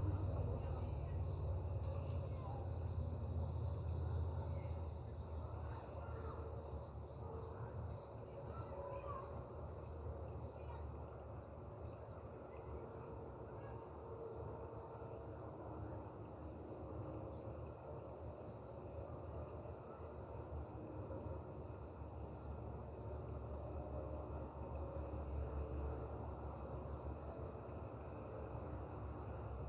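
Crickets trilling steadily in one unbroken high-pitched band, over a low rumble.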